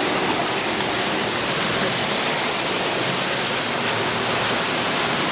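Steady rushing of water in an underground cave streamway, an even, unbroken hiss.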